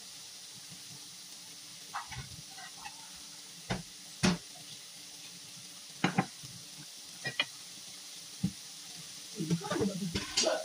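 Stir-fried bitter gourd with meat sizzling steadily in a stainless steel pan, with a few sharp clicks and knocks scattered through it and a busier cluster of them near the end.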